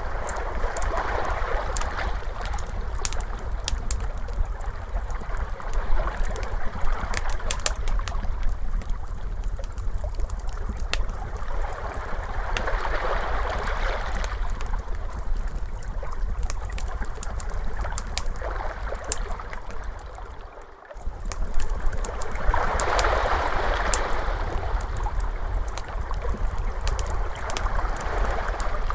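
Crackling fire with frequent sharp pops and snaps, over ocean waves that swell and wash in every several seconds with a steady low rumble beneath. The sound cuts out for a moment about two-thirds of the way through, then resumes.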